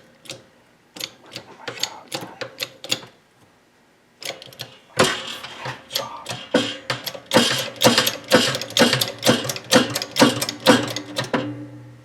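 Hand tool on steel parts: runs of sharp metallic clicks, several a second, like a ratchet being worked, in a short burst near the start and a longer, louder run from about five seconds in, with a faint ring under the later clicks.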